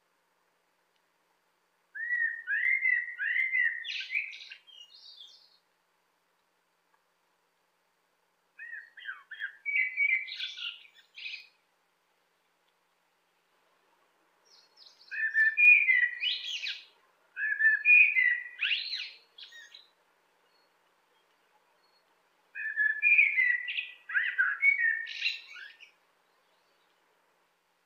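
Eurasian blackbird singing: five separate song phrases with pauses between them, each opening with low warbled notes and ending in higher twittering.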